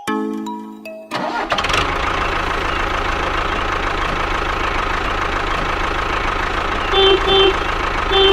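A vehicle engine cranks and starts about a second in, then runs steadily. Near the end a horn beeps twice in quick pairs. A short mallet-percussion tune stops just before the engine starts.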